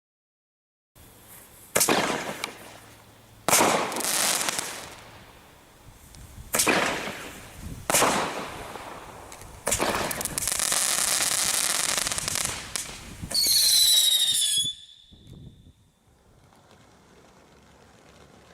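Fireworks going off: about five sharp bangs, each trailing off in a hiss, then a steady rushing hiss for a couple of seconds, then a high whistle falling slightly in pitch that cuts off about three-quarters of the way in.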